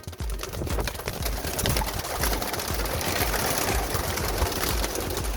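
A flock of Birmingham roller pigeons stirring, many wings flapping at once in a dense fluttering rush.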